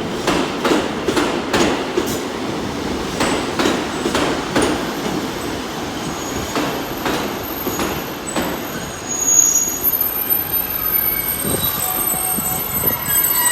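Class 150 Sprinter diesel multiple unit running into the platform, its wheels clicking over rail joints and pointwork in a steady rumble. From about nine seconds in, high-pitched brake and wheel squeal sets in as it slows.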